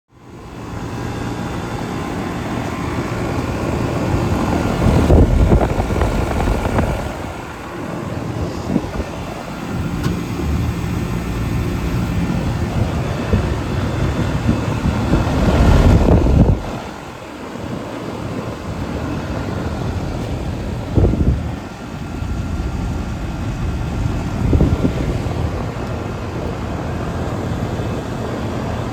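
Outdoor central air conditioner condensing unit running: a steady hum of the condenser fan and compressor. Several surges of low rumbling noise come and go over it.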